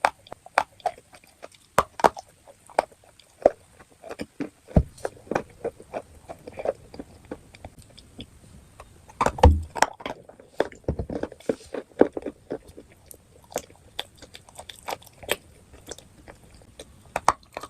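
Close-miked crunching bites and chewing of hard chalk and clay pieces, many irregular sharp crunches with a louder burst of crunching about halfway through.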